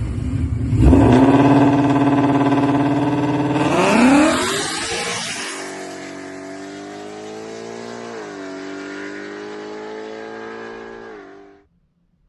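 Car engine pulling hard at high revs with its pitch held steady, then a quick rise in revs about four seconds in. It then drops to a quieter, steady drone that cuts off abruptly near the end.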